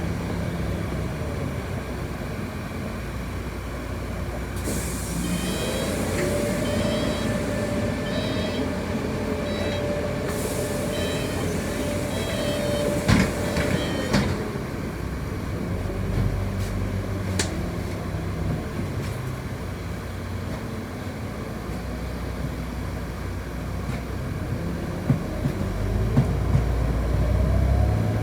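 Inside a city bus: two bursts of compressed-air hiss with a series of repeated high beeps, typical of the doors being worked at a stop. A couple of sharp knocks come about 13 s in, then the bus runs on and its drive rises in pitch near the end as it pulls away.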